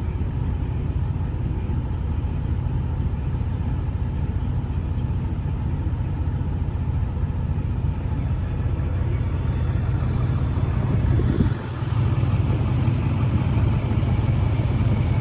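A motor vehicle's engine running steadily, a low drone that dips briefly about eleven seconds in and then comes back a little louder.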